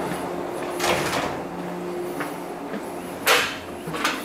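Inside a commuter train car: a steady low electrical hum, with two short hisses of air, about a second in and, louder, near the end.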